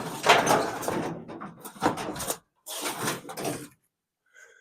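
Metal parts of a scrapped electric clothes dryer rattling and scraping as they are handled, in two stretches of irregular clatter with a pause between them.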